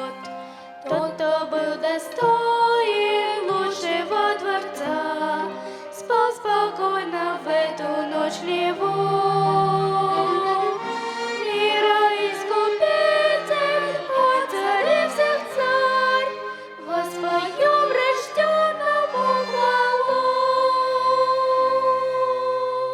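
Instrumental ending of a church song: a violin plays a wavering melody over chordal accompaniment, closing on a long held note that stops at the end.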